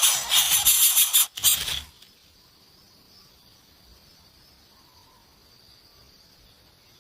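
A loud rustling, shaking noise cuts off suddenly about two seconds in, leaving a faint steady chorus of insects trilling.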